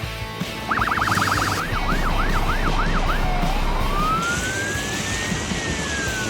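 Siren sound effect: a fast yelp starting about a second in that slows into a few wider sweeps, then one long wail rising slowly and falling, over background music.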